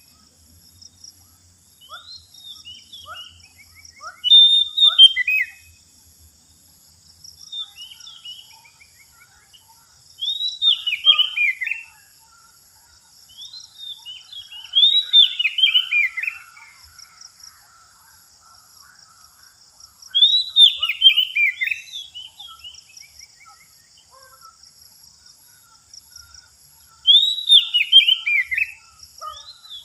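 Male Oriental magpie-robin (kacer) singing: short loud phrases of falling whistled notes, repeated every few seconds, over a faint steady high pulsing hum.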